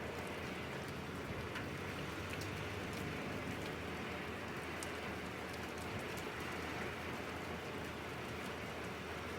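Steady rain falling, with scattered sharp ticks of individual drops striking a surface.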